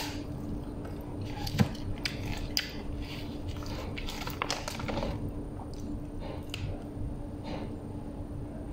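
Close-up mouth sounds of a person biting and chewing a soft flatbread wrap: irregular small wet smacks and clicks, with one sharper click about a second and a half in.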